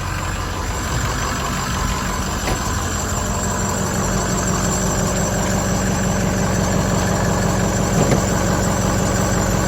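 2006 Ford F250's 6.0-litre Power Stroke turbo-diesel V8 idling steadily, with some belt noise.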